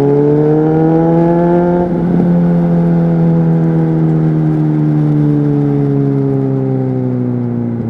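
Honda CBR600RR inline-four through a Leo Vince aftermarket exhaust, heard on board: the engine revs up for about two seconds, breaks off briefly for a gear change, then the pitch sinks slowly and steadily through the rest.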